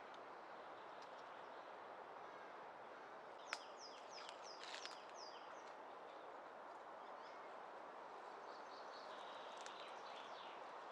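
Bird song: a quick run of about six short, falling high notes a few seconds in, and fainter chirps near the end. These sit over a steady faint hiss of forest ambience, with a single sharp click just before the bird's run.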